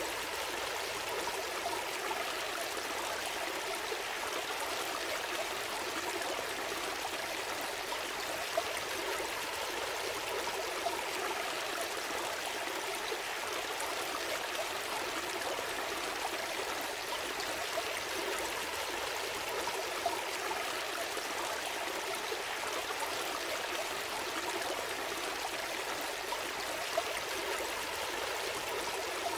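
Gentle stream flowing: a steady rush of water with a few brief splashes now and then.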